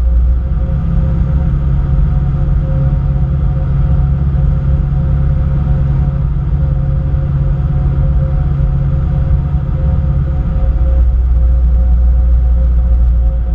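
Cessna 152's four-cylinder Lycoming engine and propeller droning steadily, with a low rumble; the low note shifts about ten seconds in.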